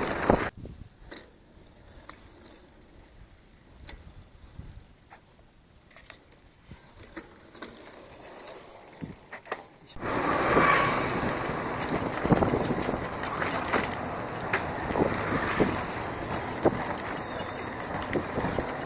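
Bicycle ridden on a dirt trail: tyre noise with scattered clicks and rattles from the bike, quiet at first, then louder and rougher from about ten seconds in.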